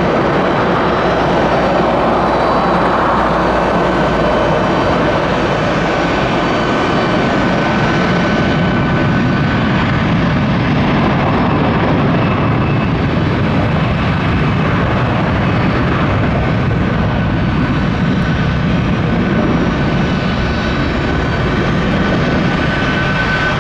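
Jet airliner engines running loud and steady as the aircraft passes close by, a dense rush with a thin high whine over it.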